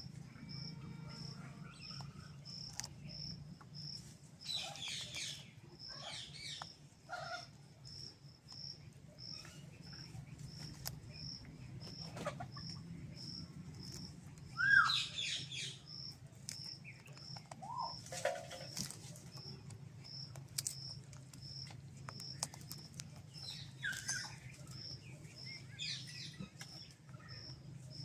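Birds chirping and calling in short, scattered bursts, the loudest about fifteen seconds in, over a faint high-pitched pulse repeating about twice a second and a steady low hum.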